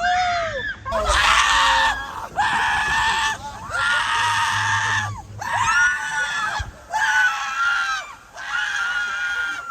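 People screaming: a string of long, high-pitched screams, one after another with short breaks.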